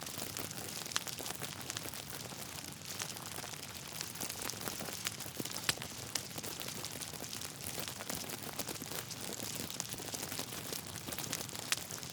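Log fire crackling over a soft hiss, with frequent small snaps and pops and one louder pop about halfway through.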